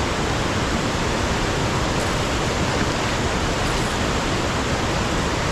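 Steady, loud rush of river water pouring over a dam.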